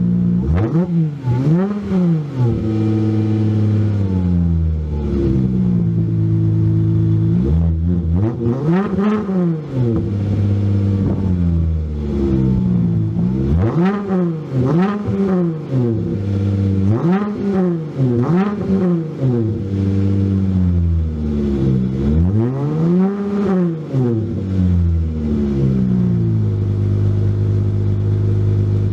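2016 Dodge Charger's 3.6-litre Pentastar V6 through a Carven TR muffler with a straight-piped rear, idling and revved in short blips: about eight rises in pitch, some in quick pairs, each dropping straight back to idle. It settles at a steady idle near the end.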